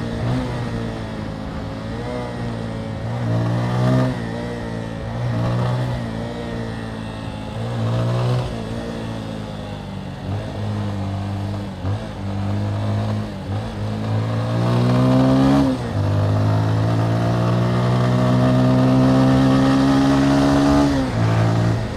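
Motorcycle engine under way, its pitch rising and falling several times with the throttle and gear changes. It then makes a long, slowly rising pull for about five seconds, which drops off sharply near the end.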